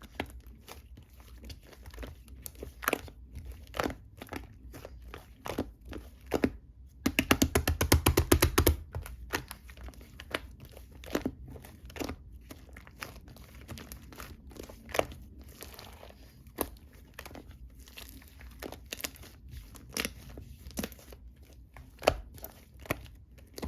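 Pink slime mixed with shaving foam being kneaded and squished by hand, giving irregular sticky clicks and crackles, with a loud fast run of popping clicks about seven seconds in.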